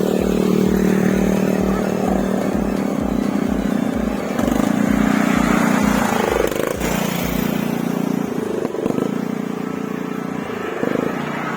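Motor vehicle engine running close by, its pitch swelling about five seconds in and easing off after about seven seconds, with a regular low thumping about twice a second.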